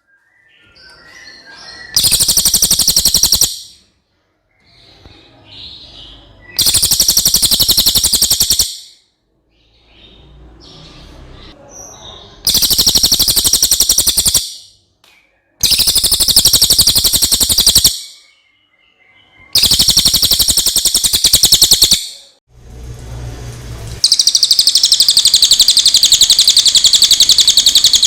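Cililin (Javan hanging parrot) song: rapid, high-pitched trills of about two seconds each, repeated five times with short pauses and fainter chirps between, then one longer unbroken trill near the end.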